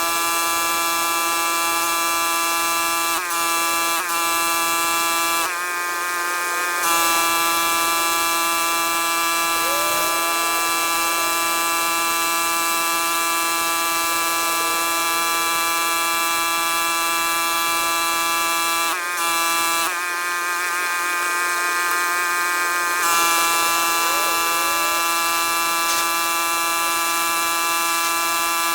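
Pressure washer running steadily with a buzzing drone. Its pitch dips briefly a few times and wavers twice as the spray load changes.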